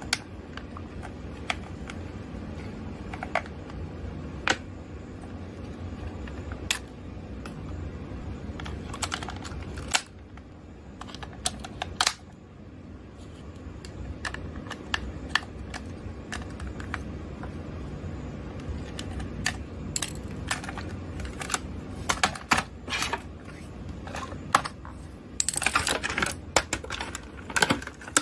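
Small hard plastic clicks and taps from handling mini RC toys and their packaging, scattered and irregular, with a dense flurry of clicking and rustling near the end.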